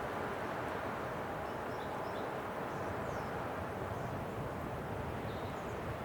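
Steady rushing winter wind, with a few faint high chirps over it.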